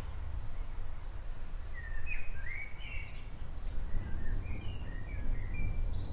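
Birds chirping in a series of short rising and falling calls, starting about two seconds in, over a steady rain ambience with a strong low rumble underneath.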